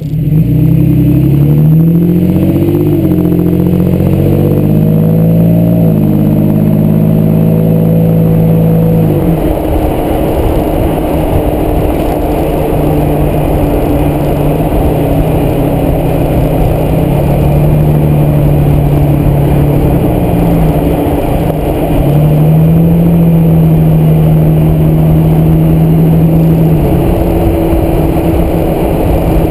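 2010 Toyota Tacoma driving: the engine's pitch climbs and drops several times over the first nine seconds as it accelerates through the gears, then it cruises at a steadier pitch under heavy rough road noise.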